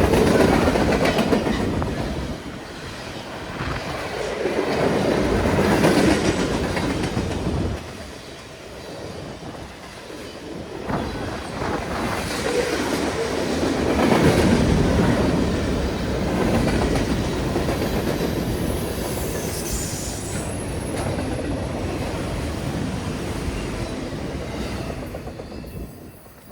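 Freight cars of a long CN freight train rolling past at about 44 mph, the wheels clattering over the rails. The noise swells and eases as the cars go by, with a faint high wheel squeal about two-thirds of the way through, and it drops away near the end.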